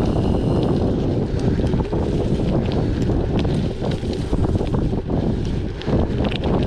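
Wind buffeting the microphone of a moving bicycle, with the bike rolling along and many small scattered clicks and rattles from the tyres and frame.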